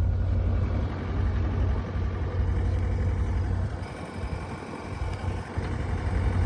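John Deere 317 skid steer's diesel engine running steadily with a deep low rumble, easing off for a moment about four seconds in before picking back up.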